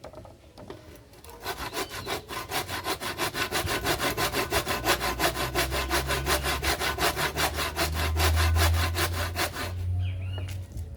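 Handsaw cutting through wood in quick, even strokes, about five a second. It starts about a second and a half in and stops shortly before the end.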